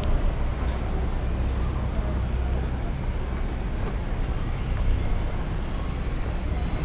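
Canal passenger boat's engine running with a steady low rumble.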